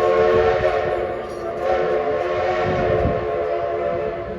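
Steam locomotive whistle sounding one long, loud chord of several notes. It dips briefly about a second and a half in, then sounds on and stops near the end.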